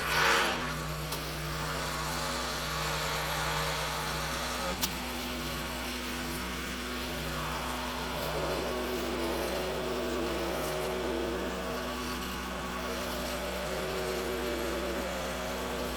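Gasoline pressure washer engine running steadily, with a short click about five seconds in.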